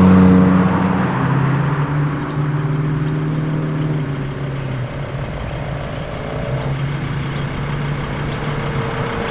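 A muscle car's engine running at low revs as the car rolls slowly in, loudest at the start and easing off, with a steady engine note again in the second half.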